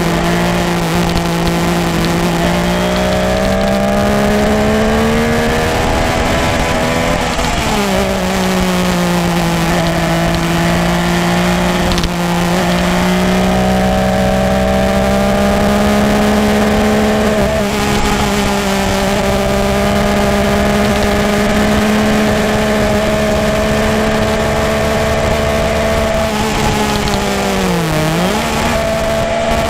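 Motorcycle engine and exhaust running under way, holding a steady note that climbs slowly. The revs drop sharply once about a quarter of the way in, as at a gear change, and dip briefly and recover near the end.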